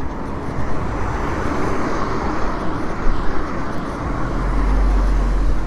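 Street traffic noise: a vehicle passes, swelling and fading about two seconds in, with a deep low rumble near the end.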